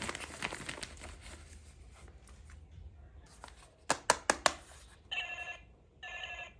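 Plastic toy pieces and packaging rustling, then four sharp clicks. Near the end, an electronic toy sound chip plays two short ringing tones, like a toy telephone bell.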